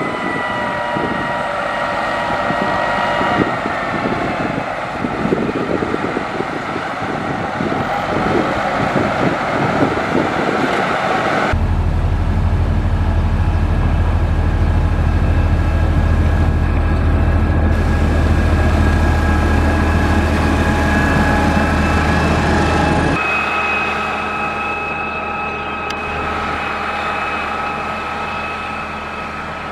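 Diesel engines of heavy road-construction machinery running steadily, with whining tones over a rough mechanical drone. The sound changes abruptly twice, about a third and two thirds of the way through. The middle stretch carries a strong deep rumble.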